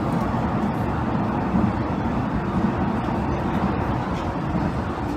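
Hanshin 5700 series "Jet Car" electric commuter train running, heard from inside the passenger car: a steady rumble of wheels on rail and motor noise, easing slightly toward the end.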